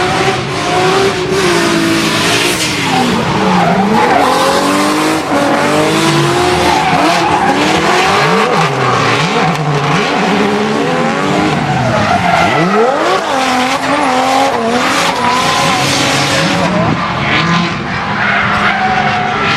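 Drift cars sliding with their tyres squealing, the engines revving up and down again and again.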